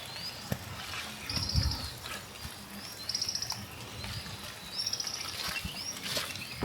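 A small bird singing a short phrase over and over, about every one and a half seconds: a rising note, then a fast trill. Under it is the steady hiss of rain.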